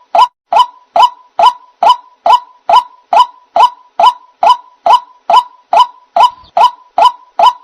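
White-breasted waterhen (ruak-ruak) calling: short, sharp notes near 1 kHz, repeated at an even pace of a little over two a second. This is the bird's lure call, used to draw waterhens into a trap.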